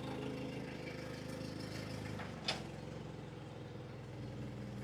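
An engine idling steadily, with a short sharp click about two and a half seconds in.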